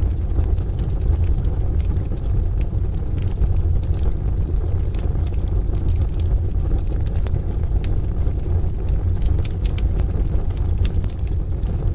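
Wood stove fire crackling, with frequent irregular sharp pops and snaps over a steady deep rumble.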